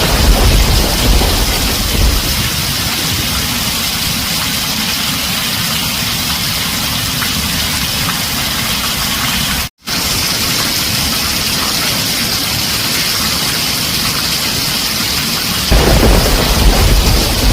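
Heavy rain drumming steadily on a tin roof. A deep thunder rumble fades out within the first couple of seconds and comes back abruptly near the end. The sound cuts out for an instant about ten seconds in.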